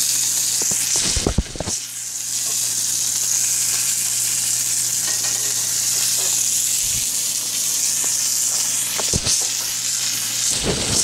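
Pork chops sizzling in hot oil in a stainless steel skillet: a steady frying hiss, broken by a few brief knocks about a second in and again near the end.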